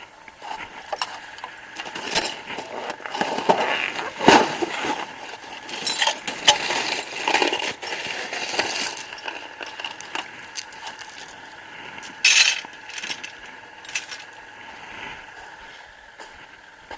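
Steel lifting chain clinking, rattling and scraping in irregular bursts of metal-on-metal clatter, busiest in the first half and again about twelve seconds in.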